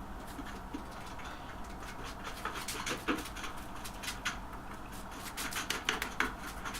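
A series of short, irregular clicks and light scrapes over a low steady hum, coming thicker toward the end.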